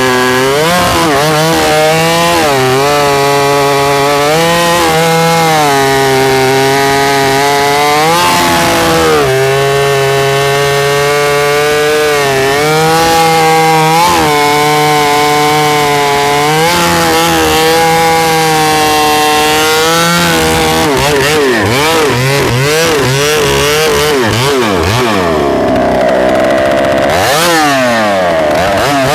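Large two-stroke chainsaw cutting a log under load, its engine pitch dipping and recovering as the chain bites. About 21 seconds in it comes free of the cut and is revved up and down repeatedly.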